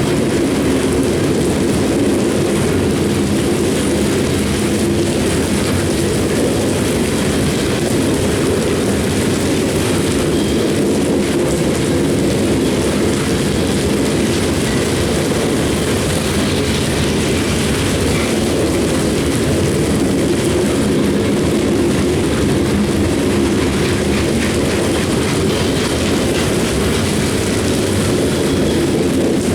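A CSX coal train rolling past, a loud, steady rumble of the train on the rails.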